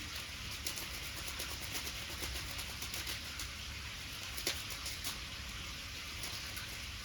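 Wood bonfire crackling: small pops scattered over a steady hiss, with one sharper pop about four and a half seconds in.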